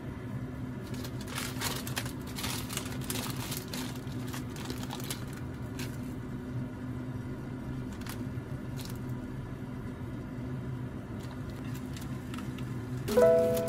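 Plastic food packaging crinkling as it is handled, over a steady low hum. Near the end a sharper sound comes in and music begins.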